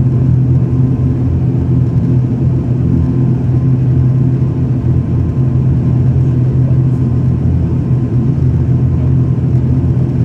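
ATR 72 turboprop's engines and propellers droning steadily, a loud, even low hum with no clear rise or fall.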